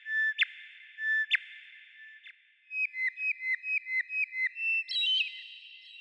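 A songbird whistling: three clear held notes about a second apart, each snapping off in a sharp pitch sweep, then a quick run of about nine short down-slurred notes and a higher note near the end.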